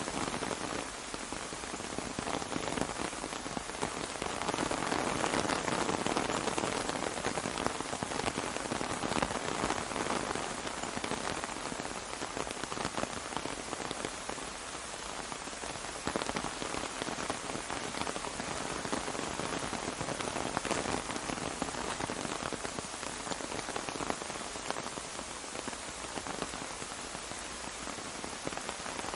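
Steady rain falling on an umbrella, a dense even hiss of many small drop ticks that swells slightly and eases now and then.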